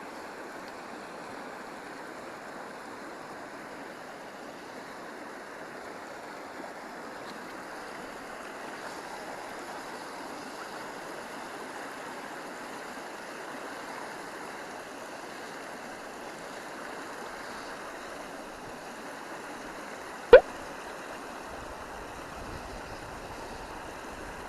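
Stream water running steadily over the riverbed, with one sharp click about twenty seconds in.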